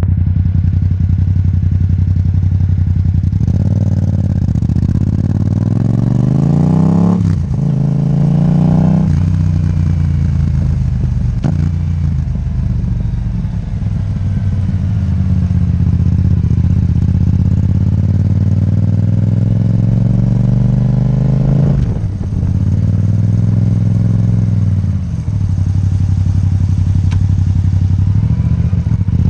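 Yamaha MT-07 parallel-twin engine running through an Akrapovic titanium exhaust, revs climbing, dropping sharply about seven seconds in and again about nine seconds in, then running steadier with another dip and climb past twenty seconds.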